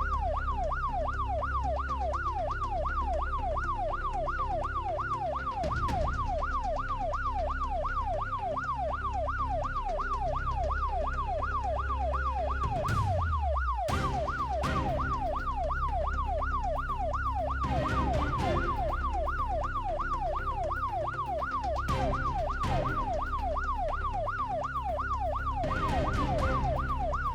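Police siren wailing in fast, even rising and falling sweeps, several a second, without a break.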